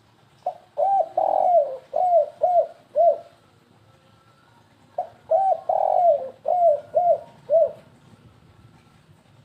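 Spotted dove (tekukur) cooing twice, in the stuttering kuk-3 style kept by dove fanciers. Each phrase is a run of short coos that rise and fall, with one longer drawn-out coo in the middle.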